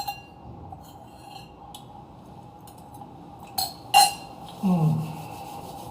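Cutlery clinking against a dish while eating, with a few light taps and two louder clinks about two-thirds of the way in. A short hum from the eater follows.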